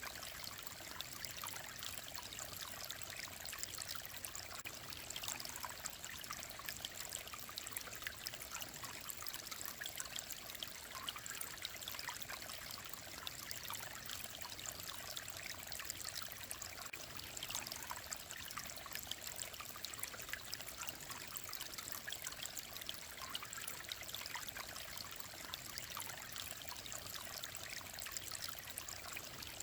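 Small mountain stream of clear water flowing and trickling over rocks, a steady babble with no let-up.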